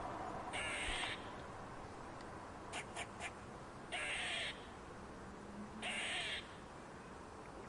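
Crow cawing: three harsh caws, each about half a second long and spaced about two seconds apart, with a few short sharp bird notes between the first and second.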